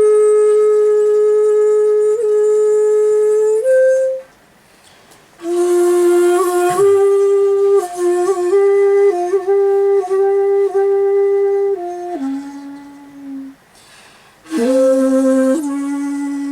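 Komuso-style shakuhachi (bamboo end-blown flute) playing a slow solo piece: long held notes with small ornamental dips and steps in pitch. Each new phrase starts with a breathy, airy attack, and twice the playing stops briefly for a breath.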